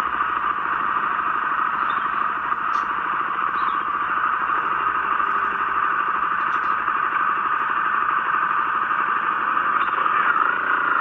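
A motorcycle engine idling under a steady hiss, with the pitch wavering slightly near the end.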